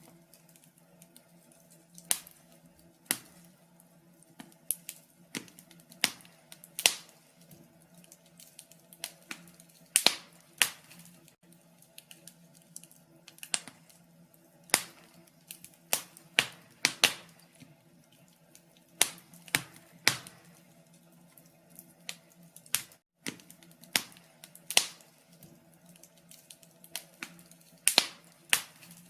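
Wood fire in a fireplace crackling, with irregular sharp pops and snaps, some single and some in quick clusters, over a quiet background.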